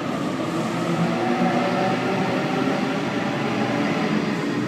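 Electric passenger train departing the platform: a steady running noise with several faint whining motor tones held underneath.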